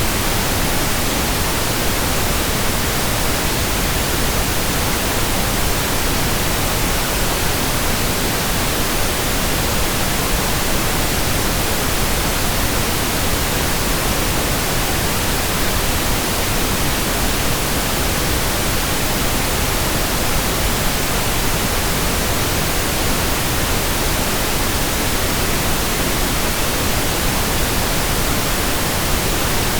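Steady pink noise: an even, unchanging hiss spread across the whole range.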